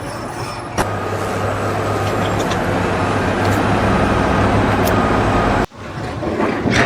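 Steady machinery noise with a low engine hum, which cuts off abruptly near the end.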